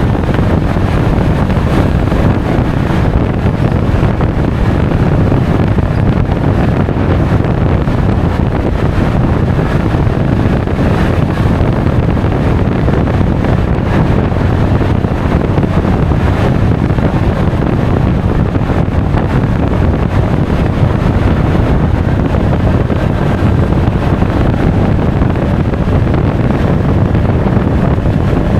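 Steady wind rush on the action camera's microphone while riding a Honda Forza 350 scooter at speed, with the vehicle's running noise underneath.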